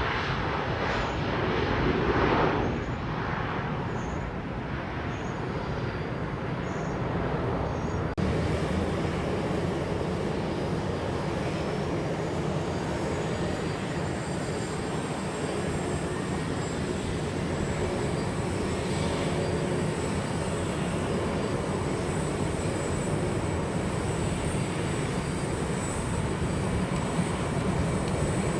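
Jet airliner engines running: a steady rush of engine noise. It changes abruptly about eight seconds in, and after that a high whine rises and then holds.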